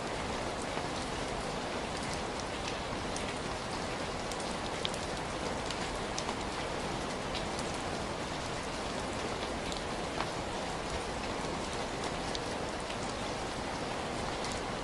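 Heavy rain falling steadily, a dense even hiss with scattered sharp drop hits standing out.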